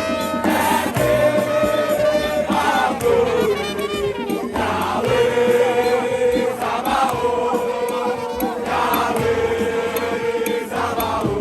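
Many voices singing together over music, with long held notes.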